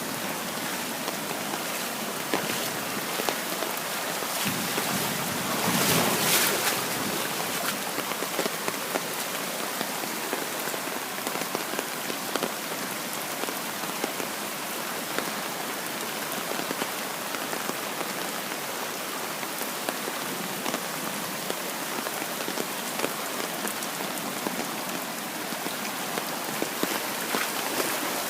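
Heavy rain in a hailstorm, falling as a steady dense hiss full of small sharp hits on hard surfaces, with a brief louder surge about six seconds in.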